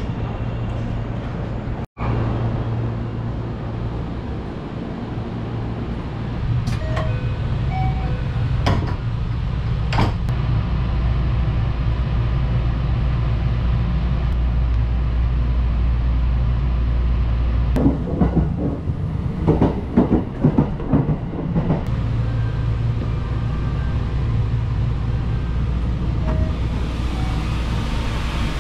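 Steady low rumble of the Sunrise Express sleeper train, a 285 series electric train. A few sharp clicks come through, and there is a burst of knocks about two-thirds of the way through.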